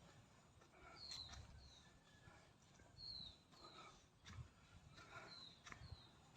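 A bird calling faintly, repeating a pair of short, high, falling notes about every two seconds.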